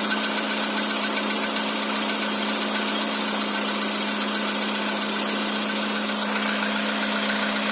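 Skoda Roomster's CFNA 1.6-litre four-cylinder petrol engine idling cold, with a rapid, even knock riding over the steady running: the cold-start knock this engine is known for.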